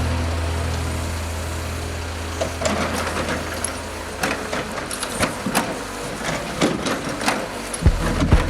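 Heavy truck's diesel engine running steadily with a low hum, with scattered metallic knocks and clanks. Near the end, a series of evenly spaced low thumps begins.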